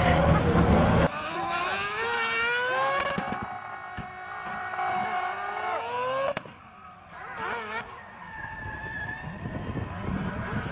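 Four-rotor 26B rotary engine of a drifting Mazda RX-7 FD revving hard, its pitch climbing twice in long pulls. The sound changes abruptly about a second in and again past six seconds, after which the engine is quieter.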